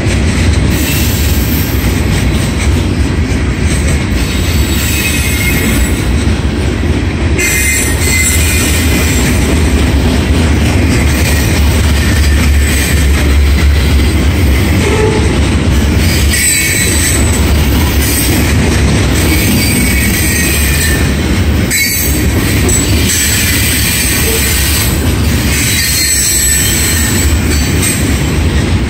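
Loaded covered hopper cars of a freight train rolling past: a loud, steady rumble of steel wheels on rail, with stretches of high-pitched wheel squeal coming and going.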